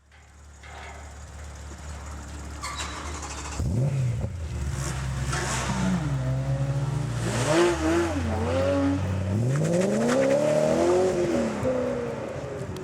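BMW M3 GTS's 4.4-litre V8 running at a low, steady note, then revving up about four seconds in and holding a higher note. From about nine and a half seconds the pitch climbs as the car accelerates, then eases off near the end.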